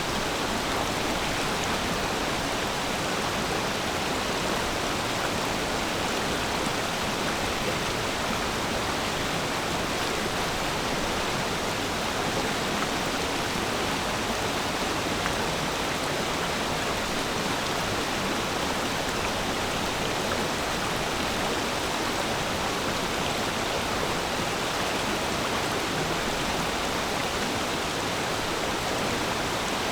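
A forest stream flowing, an even, unbroken rush of water.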